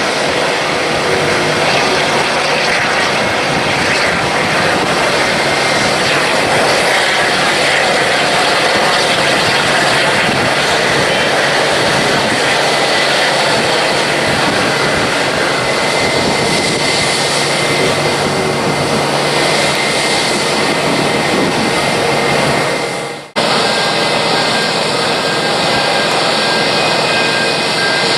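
Jet airliner engines running in a loud, steady roar. About 23 seconds in the roar fades briefly and cuts off, and a similar jet roar starts again at once.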